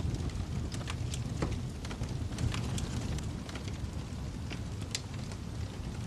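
Wood fire crackling in a fireplace: scattered sharp pops and snaps, one or two a second, over a steady low rumble of the burning flames.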